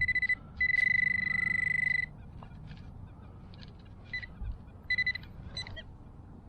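Metal detector sounding a high, steady signal tone over a metal target. A short tone comes first, then a longer one of about a second and a half, followed by a few brief beeps near the end.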